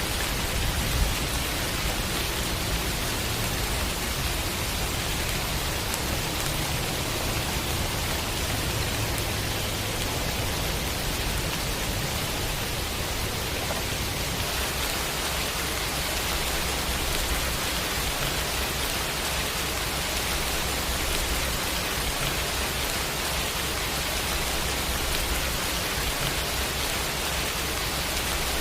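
Steady heavy rain, an even hiss over a low rumble, with no distinct thunderclaps.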